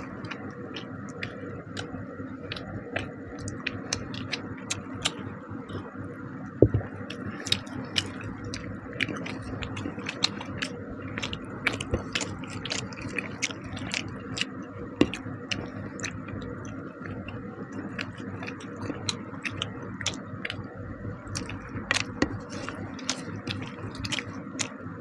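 Close-miked eating of fish curry and rice by hand: steady chewing with many small, irregular wet clicks and smacks of mouths and fingers.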